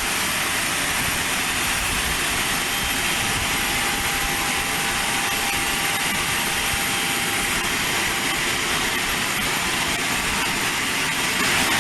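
Aircraft turbine noise on the ramp: a steady rush with a constant high whine, unchanging throughout.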